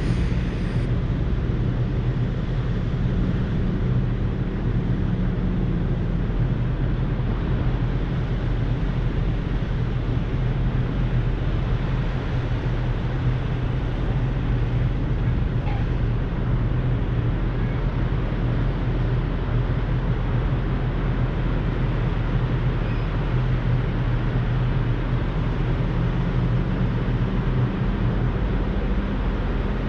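Semi-truck diesel engine running steadily, a low, even drone.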